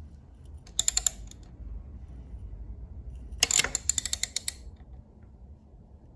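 Two runs of rapid metallic clicking, about a second in and again at about three and a half seconds, as the KTM 950's engine is turned over by hand.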